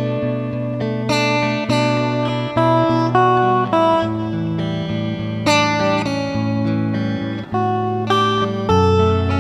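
Background music: acoustic guitar picked and strummed in a steady rhythm over a changing bass line.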